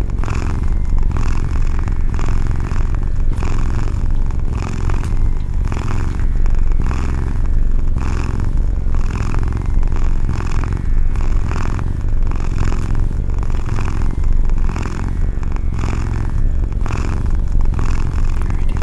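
A cat purring close up: a deep, continuous rumble that swells and eases in an even rhythm with its breaths.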